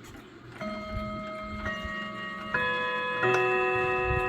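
Seth Thomas chiming clock striking four chime notes about a second apart, each ringing on under the next. Its chime barrel has been set ahead out of sequence, so the quarter-hour tune is played a little off, with the fourth note coming first.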